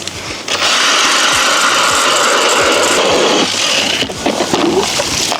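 Ice auger boring through pond ice: a steady grinding that starts about half a second in and stops after about three seconds.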